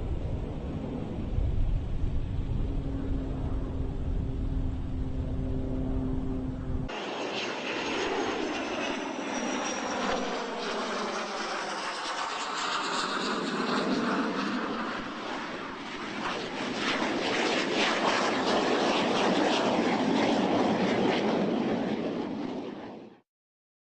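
Jet aircraft engine noise: a low rumble with a steady hum, then after an abrupt cut about seven seconds in, a jet aircraft flying past, its noise sweeping and whooshing as it passes. The sound cuts off abruptly near the end.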